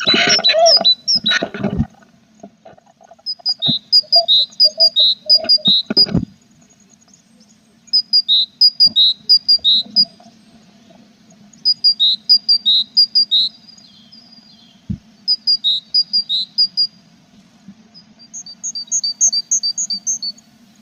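Tits in a nest box chirping: rapid series of high chirps, about four or five a second, in bouts of one to two seconds with short pauses between them. Loud scuffling and knocks against the box fill the first two seconds and come again around six seconds in.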